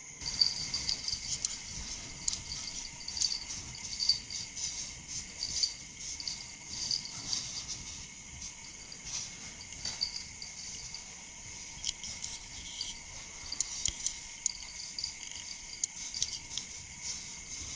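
Crickets chirping, a continuous chorus of short repeated high chirps, with a faint steady high tone beneath.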